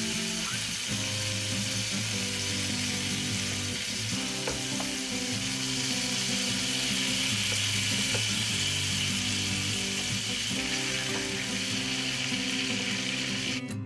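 Melted butter sizzling steadily in a cast iron skillet as apricot halves fry in it, with a few faint clicks, over background music. The sizzle cuts off suddenly near the end, leaving only the music.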